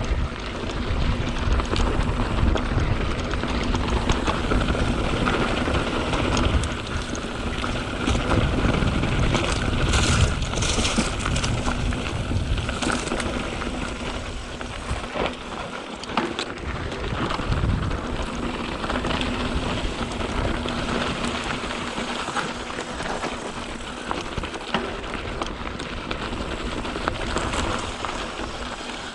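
Canyon Spectral 7 mountain bike riding down a dirt singletrack: tyres crackling over dirt and loose stones, brush swishing against bike and rider, and a steady low rumble of wind on the microphone.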